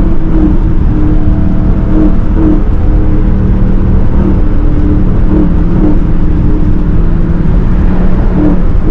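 Car engine and exhaust running steadily at a constant speed: a loud, low drone whose pitch holds nearly level with small wavers.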